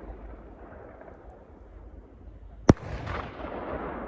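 Aerial fireworks display: one sharp, loud shell burst about two-thirds of the way through, over a continuous low rumble from the show.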